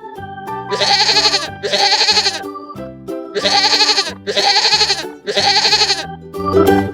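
Goat bleating five times, in short calls of about half a second each, over steady background music.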